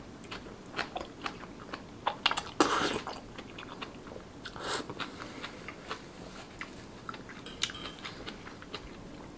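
Close-miked chewing of a mouthful of yong tau foo in sauce: wet smacks and crunches, with the loudest bursts about two to three seconds in.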